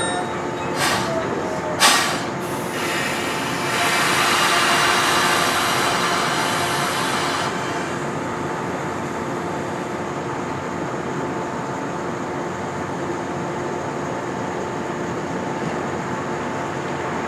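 Two electric trains standing coupled: two sharp metallic clanks about a second apart, then air hissing loudly for about four seconds, then a steady hum from the trains' onboard equipment.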